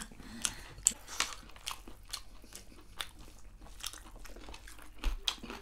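Close-up eating sounds of fried goat meat and rice eaten by hand: chewing with irregular small crunches, smacks and clicks.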